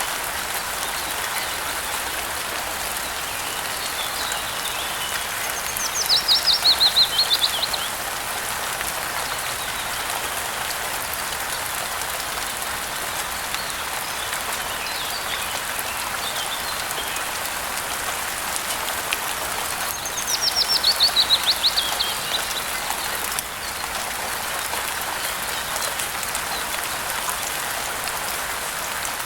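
Steady rain falling, with a small bird singing over it twice: each song is a quick run of notes dropping in pitch and lasting about two seconds. Fainter chirps come in between.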